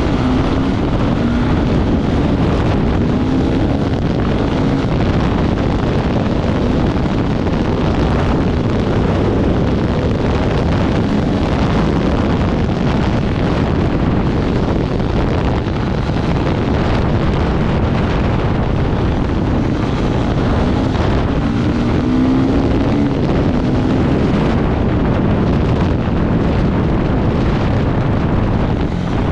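Off-road motorcycle engine running hard at speed, its revs rising and falling, with heavy wind buffeting the microphone.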